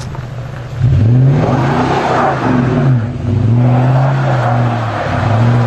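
A 4x4's engine revving up and down several times, louder from about a second in, with a hiss of tyres spinning on ice: the wheels are burning through the ice without finding grip.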